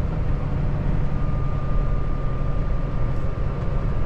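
Cab noise of a Kenworth T680 semi-truck driving at low town speed: a steady low engine drone and road rumble, with a faint thin steady whine from about a second in.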